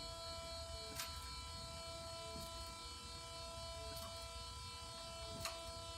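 Steady electrical whine of several fixed tones over a low hum from a Mercedes-Benz SLK (R171) with the ignition switched on, the noise the owner is documenting. Two sharp clicks sound, about a second in and near the end.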